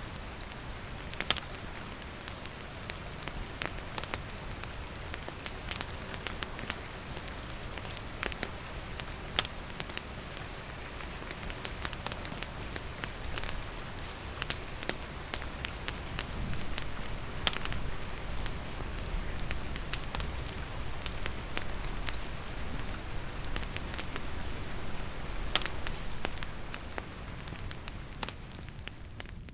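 Steady rain falling on leaves and a wooden roof, mixed with a wood campfire crackling, its sharp pops scattered irregularly through the hiss.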